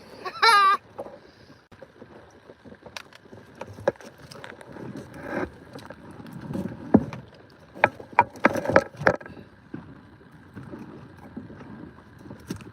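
Irregular knocks, clicks and rustling from a bass that has just been netted being handled aboard a small inflatable boat. A brief wavering high-pitched cry sounds about half a second in.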